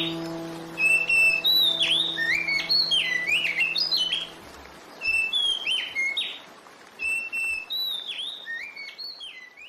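A songbird singing the same phrase over and over: a clear held whistle followed by quick down-slurred notes. Under it a sustained piano chord dies away about four and a half seconds in.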